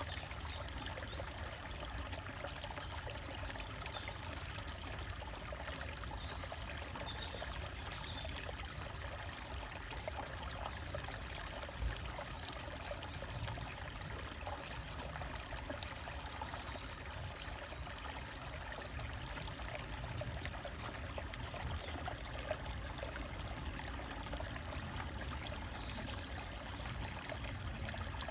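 Small forest stream trickling and gurgling steadily over rocks, with faint bird chirps scattered above it. A single brief low bump comes about twelve seconds in.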